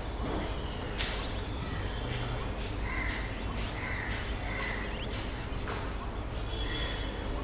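Birds calling outdoors: a run of short repeated calls a little over half a second apart, then two more near the end, over a steady low background rumble.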